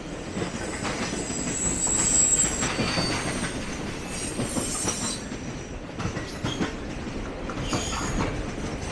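Triple Crown RoadRailer freight train rolling past: a steady rumble with the rapid clicking of wheels over rail joints. High-pitched wheel squeals rise and fade several times.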